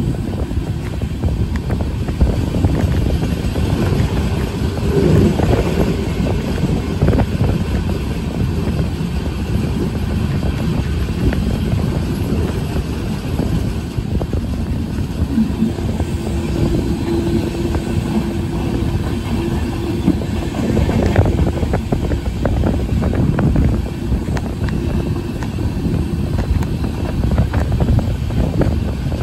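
Passenger train running along the track: a steady, loud rumble of wheels on rail, full of rapid clicks and knocks.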